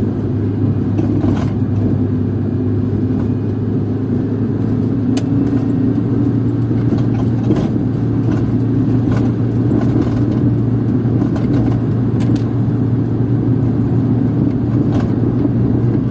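Steady drone of a car's engine and tyres heard from inside the cabin while driving along at an even pace over a rough road surface, with a few faint ticks scattered through.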